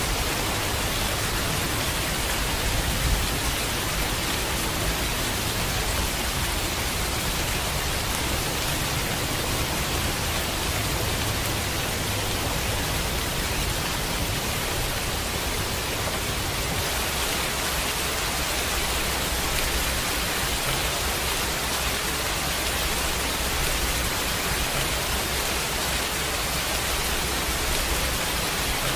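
Steady heavy rain, a dense even hiss, with a low rumble underneath that eases about halfway through.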